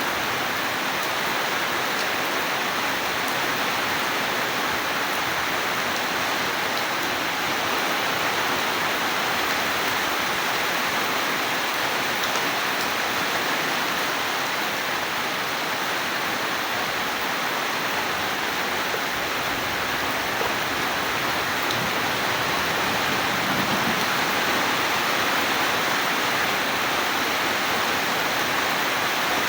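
Steady heavy rain, a dense even hiss with no break or thunderclap.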